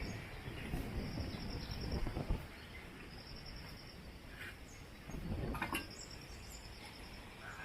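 Wind blowing through forest trees in gusts, swelling in the first two seconds and again about five seconds in. Insects trill in a high-pitched pulsing buzz that comes and goes, with a few short bird chirps.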